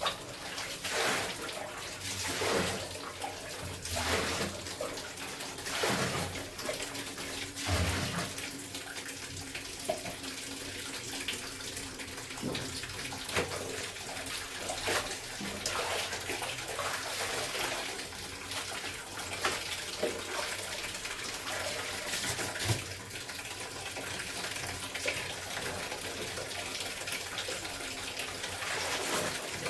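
Water sloshing and splashing as clothes are washed by hand in a tub of water. There are splashes about every two seconds at first, then steadier water noise with small splashes.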